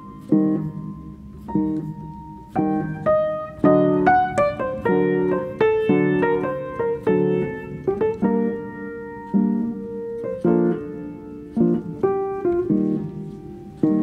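Background piano music: a gentle melody over chords, each note striking and fading.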